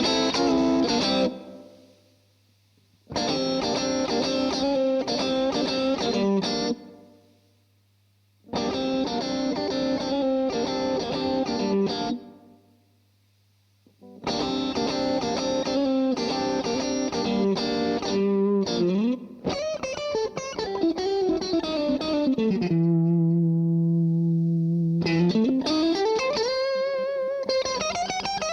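Siam Custom electric guitar played through a DemonFX Breaker Drive pedal into a NUX Amp Academy preamp, giving a driven, distorted tone. Three chord phrases ring out and are cut off into silence each time. Then comes a longer phrase whose pitch slides down to a held low note and climbs back up near the end.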